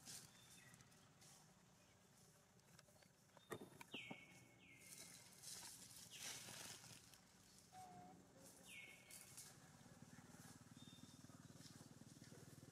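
Faint short high-pitched animal chirps, each falling in pitch, heard three times, with a few light clicks between them.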